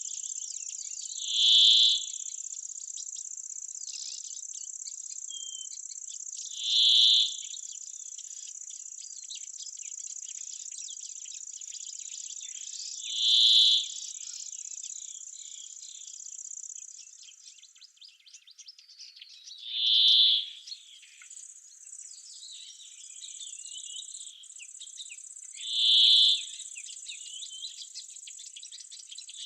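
Crickets or other insects in summer grassland and woodland make a steady, high-pitched buzz. A short, louder call cuts across it about every six seconds, and faint scattered chirps fill the gaps.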